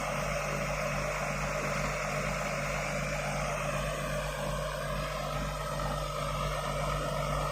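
IVECO 6x6 truck's diesel engine running steadily, with a constant low hum and a higher tone that wanders slightly in pitch.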